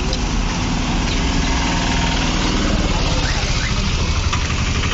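A motor vehicle's engine running close by: a steady low rumble with a pitched hum that fades out after about three seconds.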